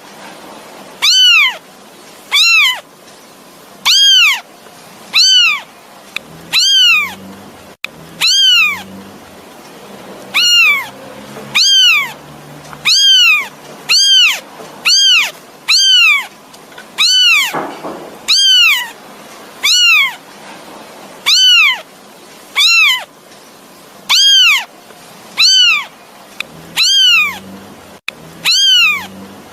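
Kitten mewing over and over to call its mother: short, high-pitched mews, each rising then falling in pitch, about one a second.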